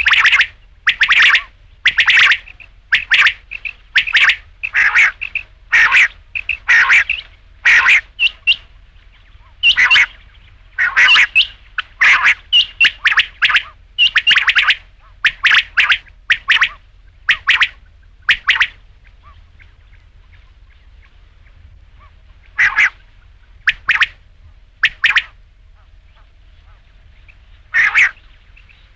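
Quail calling: short, sharp calls repeated about twice a second. After about eighteen seconds they break off, and a few scattered calls follow later.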